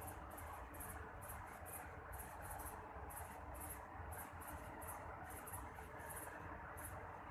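Night insects chirping: short, high chirps repeating a few times a second, unevenly, over a steady faint hiss.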